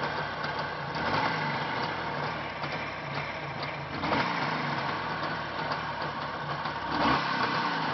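A Jawa motorcycle's two-stroke engine running at idle, with brief rises in revs about every three seconds.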